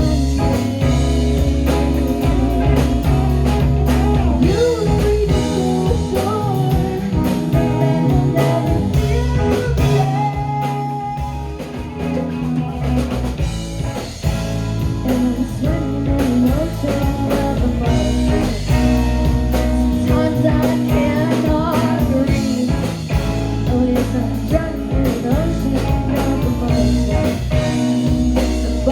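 Live rock band playing: electric guitar and drum kit over a heavy low end, with a voice singing. The band eases off briefly about eleven seconds in, then comes back up.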